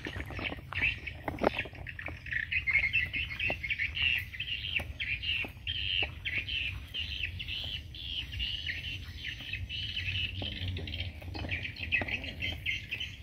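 Birds chirping in a dense, fast chorus of short repeated calls throughout. Scattered cracks and rustles of twigs and leaves come from someone pushing through brush.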